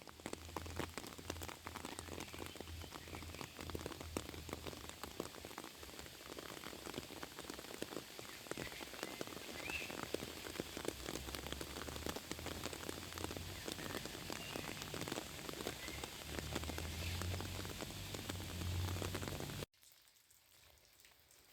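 Steady rain falling, a dense patter of many drops. Near the end it cuts off abruptly to a much quieter patter.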